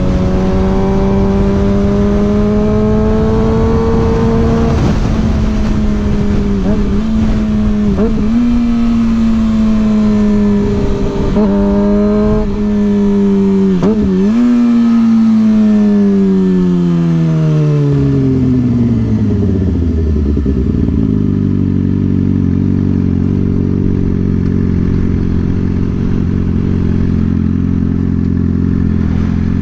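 Suzuki GSX-R 600's inline-four engine under way, its revs briefly dipping and jumping several times as on gear changes. The revs then fall away steadily as the bike slows, and it settles into a steady idle for the last several seconds. Wind rushes over the microphone throughout.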